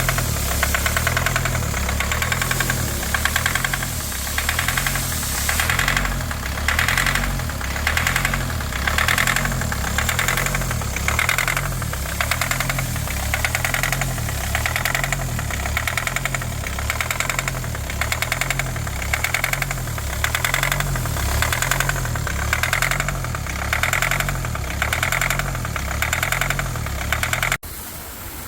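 2020 Kia Sportage diesel engine idling roughly with a hard knocking rattle and a lumpy surge about once a second: the engine misfire and shaking the owner complains of. The sound cuts off suddenly near the end.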